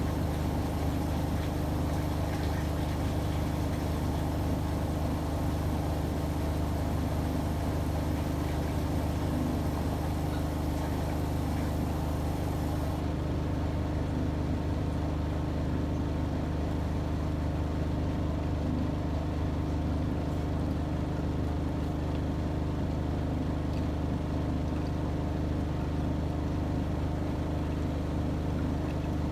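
AEG Öko-Lavamat 73749 washing machine running with a steady, even motor hum.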